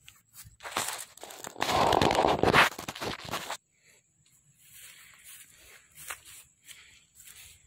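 Loud rustling, tearing-like noise close to the microphone for about three seconds, cutting off suddenly, then faint scattered rustles and ticks.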